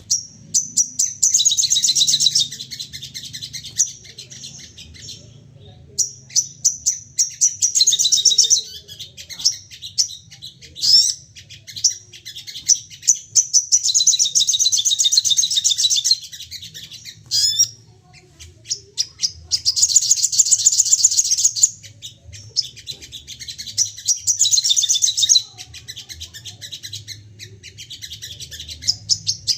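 Sogon songbirds singing in agitated bouts of rapid, high-pitched trills and chattering notes, each bout a few seconds long with short pauses between, the fired-off 'nembak' song of a bird in an aggressive, excited state.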